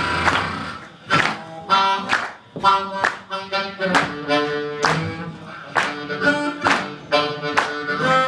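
Blues music: harmonica notes held over a steady beat of sharp strummed or struck accents.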